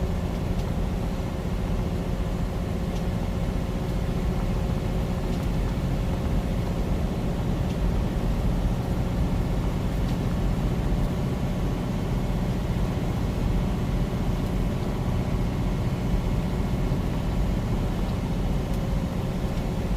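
Steady low drone of a semi truck's engine and tyres on a snowy road, heard inside the cab while rolling downhill with the engine brake off.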